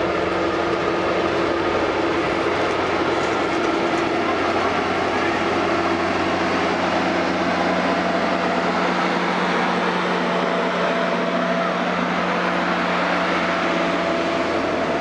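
Canadian Pacific Holiday Train boxcars rolling past close by: a steady rumble of wheels on the rails.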